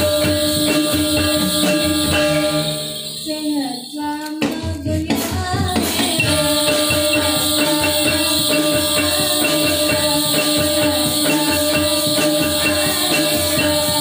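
Topeng Ireng dance music: drums with jingling bells or tambourine over steady held tones. The music drops back briefly about three to four seconds in, then comes back in with a sharp hit.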